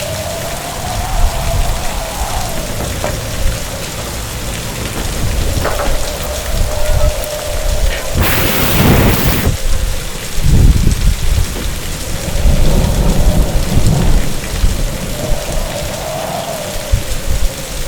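Heavy rain with low rumbling thunder, and a sharp crack of thunder about eight seconds in followed by a deep rumble. A faint tone slowly rises and falls underneath.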